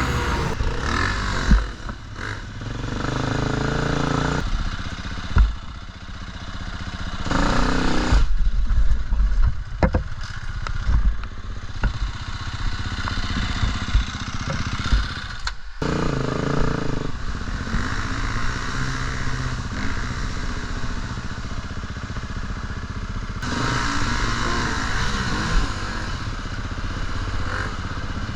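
KTM four-stroke enduro dirt bike engine revving and easing off in bursts as it is ridden over rough, muddy ground, with the clatter and knocks of the bike over the terrain; the sound breaks off briefly near the middle.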